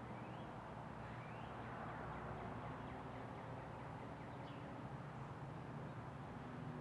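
Three faint, short, upward-sweeping bird chirps, one near the start, one about a second in and one past the middle, over a steady background hum.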